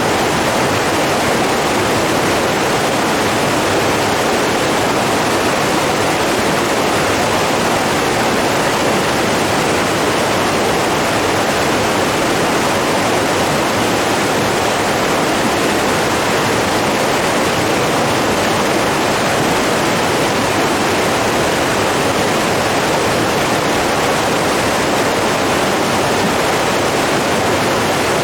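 Rushing water, a steady, unbroken rush of a stream or falls running hard.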